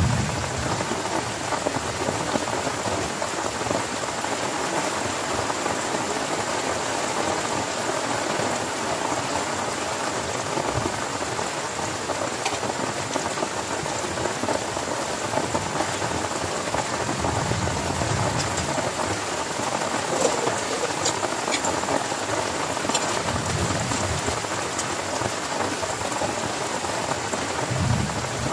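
Heavy rain pouring steadily, a dense even hiss of drops, with a few brief low rumbles in the second half.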